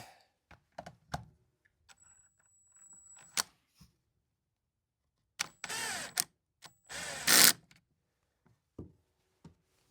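Cordless drill-driver on a light clutch setting driving a screw into a chainsaw's recoil starter housing, in two short runs with a wavering motor pitch, the second louder, after a few light clicks of handling.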